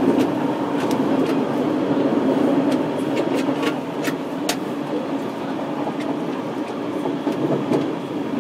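Saikyo Line commuter train running between stations, heard at the gangway between two cars: a steady rumble of wheels on the rails with a low hum, and many short sharp clicks and rattles.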